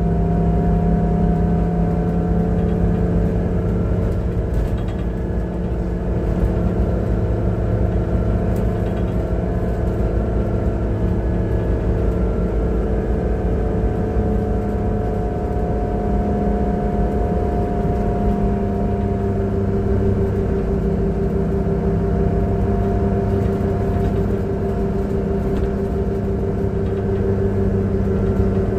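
Transperth bus engine running at a steady pace: a constant drone with several held tones that drift slightly in pitch over a low rumble. The uploader calls it a bad engine sound.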